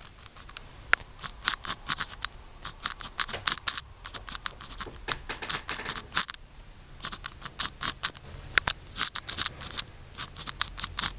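KACO pen scratching on paper in quick, irregular handwriting strokes, with a short pause about six seconds in.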